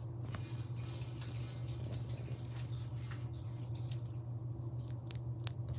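A steady low hum with light scattered clicks and rustling on top, busiest in the first half.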